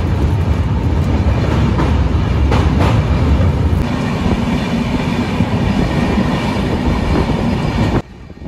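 Moving passenger train heard from on board by an open window: a steady, heavy rumble and clatter of wheels on the rails. The rumble is heaviest at first while the train crosses a river bridge, changes about four seconds in, and cuts off suddenly near the end.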